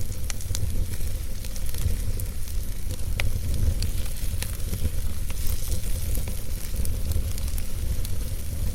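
Wood fire burning in a fireplace: a steady low rumble of the flames with scattered sharp crackles and pops from the logs and a soft hiss.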